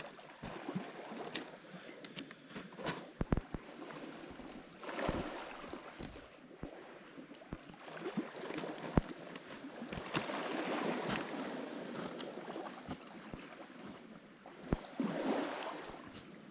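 Lake Michigan waves washing onto a rocky shore, surging and easing several times, with a long surge in the middle and another near the end. Sharp clicks and knocks come through the wash throughout.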